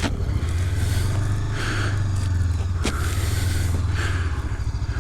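Honda CB500X parallel-twin motorcycle engine running steadily with an even low pulse, with a single sharp click about three seconds in.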